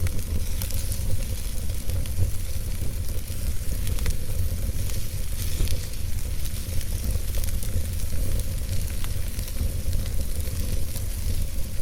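Wood fire burning in a fireplace: a steady low rumble under a hiss, with scattered small crackles and pops.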